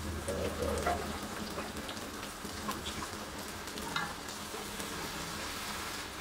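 Frying sizzle in a hot wok as coconut milk is poured into sautéed tomato and egg, followed by a spatula stirring and scraping the pan.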